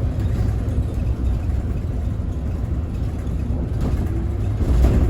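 Scania Citywide city bus running: a steady low engine rumble with a brief louder swell near the end.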